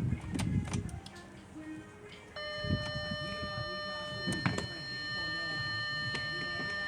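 Audi A4 engine started about two and a half seconds in, then running steadily, with a steady high whine over it and a few sharp clicks.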